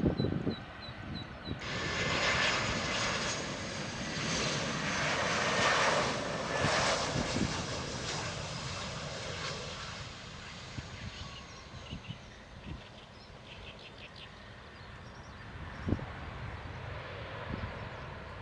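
Airliner's jet engines at high power. The roar starts suddenly about a second and a half in, is loudest over the next several seconds with a high whine on top, then slowly fades away.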